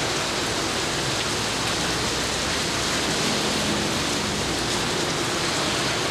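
Steady rain falling, an even dense hiss that holds at the same level throughout.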